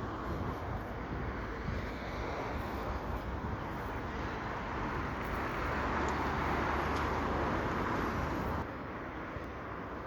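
Road traffic noise: a steady rush of passing vehicles that swells louder in the middle and drops suddenly near the end.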